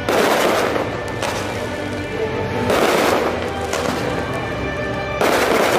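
Fireworks shells bursting, several sharp booms with a crackling tail each, roughly a second or so apart, over music with sustained tones.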